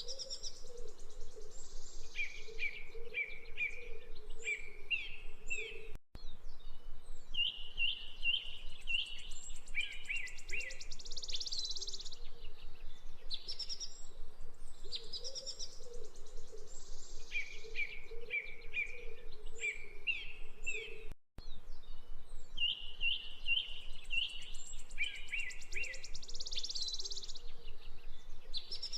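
Wild birds chirping and trilling in repeated groups of quick high notes, with a lower warbling call underneath. The sound cuts out for an instant twice, and the same passage starts over each time.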